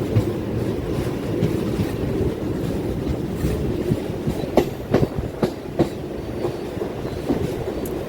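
Train running along the rails: a steady rumble with the wheels clacking over rail joints, a run of sharp clacks about halfway through.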